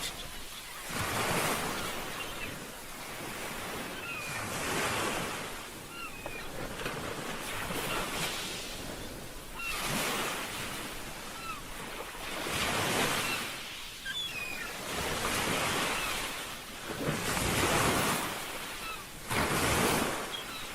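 Ocean surf washing ashore in repeated surges, a new wave every two to three seconds, with faint short high chirps between them.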